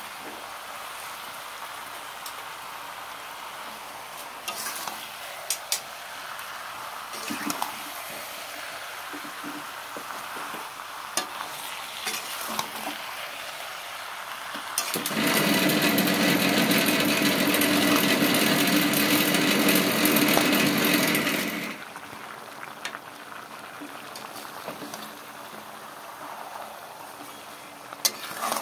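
Marinated chicken, potatoes and onions sizzling in a kadai, with the clicks and scrapes of a metal spatula stirring against the pan. In the middle, a much louder steady mechanical hum runs for about seven seconds, then cuts off sharply.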